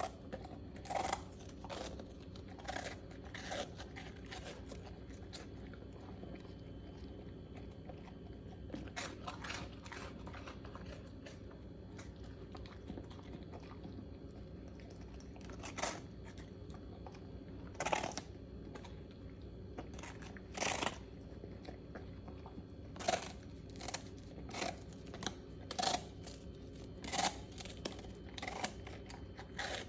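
A Bernedoodle chewing crunchy dog treats: irregular crisp crunches with pauses between bites, coming more often in the last third.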